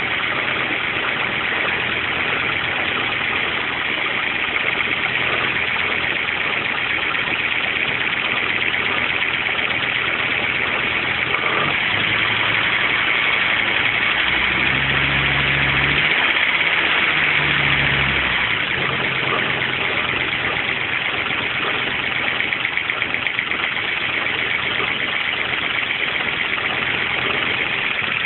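Audi 200 20V's 3B turbocharged five-cylinder engine idling, with a steady high-pitched noise running over it, the strange noise under investigation. The deep engine note shifts for a few seconds around the middle.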